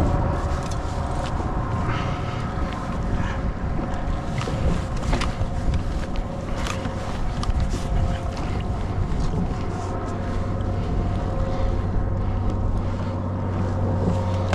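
Wind buffeting the microphone and water lapping against a kayak on a choppy day, with scattered light knocks.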